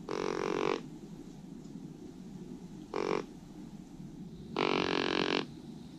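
A hand-held deer call blown three times: a longer call at the start, a short one about three seconds in, and another longer one near the end.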